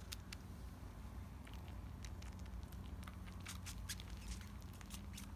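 10-week-old kittens sucking on their paws: irregular soft wet sucking clicks over a low, steady purr.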